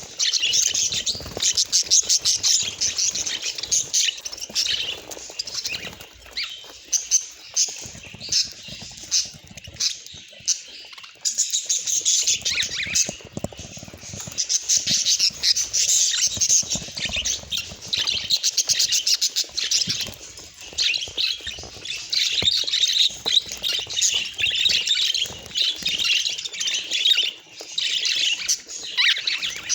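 Budgerigars chattering and warbling without pause: a dense stream of rapid, short, high chirps and squawks.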